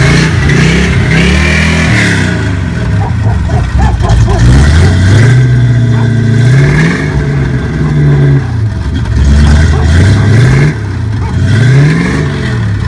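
Classic Mercury Cougar V8 engine revving, its pitch rising and falling several times.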